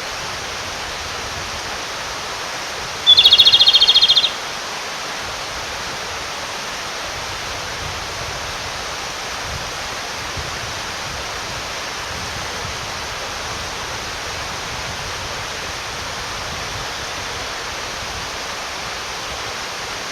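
Male Japanese robin singing once, a short opening note followed by a fast rattling trill of about a second, an advertising song to call a female. A mountain stream rushes steadily underneath.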